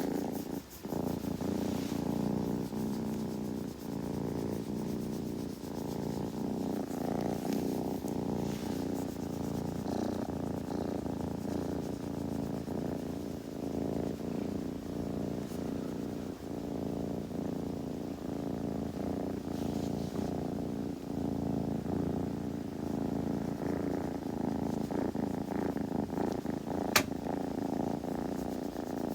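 Kitten purring steadily, a close continuous rumble. Near the end there is a single sharp click.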